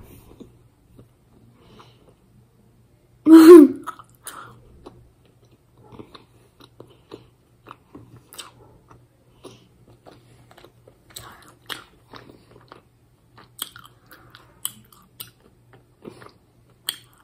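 Close-up chewing of a gummy jelly sweet, with small wet mouth clicks and smacks scattered throughout. About three seconds in there is a brief, loud vocal sound from the throat.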